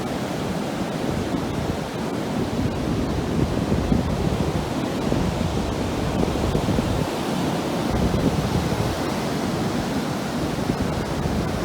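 Ocean surf breaking and washing up the shore as the high tide comes in: a steady, loud rush, with wind buffeting the microphone.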